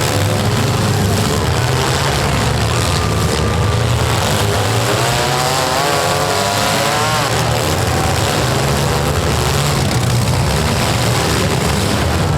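Engines of several compact demolition-derby cars running hard over a steady low drone. A few of them rev up and down around the middle.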